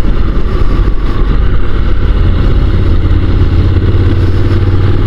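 Honda NC750 DCT parallel-twin motorcycle engine running steadily on the move, with a constant low drone.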